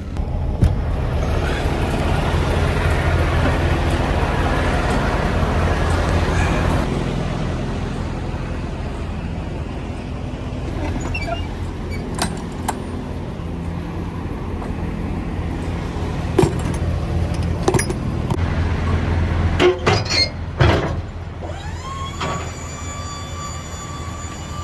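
Tractor-trailer's diesel engine running with a steady low hum, louder for the first several seconds, with a few sharp knocks and clunks in the middle stretch; near the end a steady high whine sets in.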